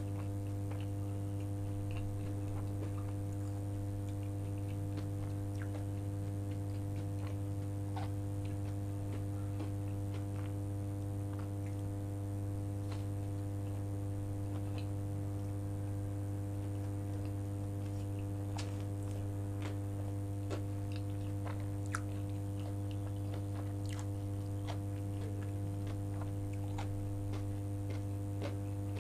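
Close-up chewing and biting of a soft steamed bao bun, with scattered small mouth clicks. A loud steady low hum runs underneath.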